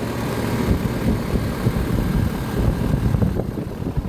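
Outdoor condenser unit of a 2025 Rheem Endeavor Line central air conditioner running: steady compressor and fan hum with an uneven, gusty low rumble of air.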